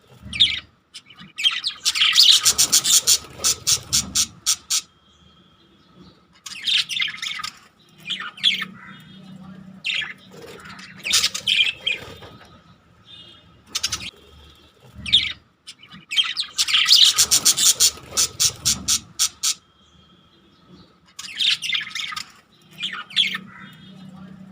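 Small pet parrots kept as love birds chattering: bursts of rapid, high squawks and chirps, each a few seconds long, separated by quieter gaps.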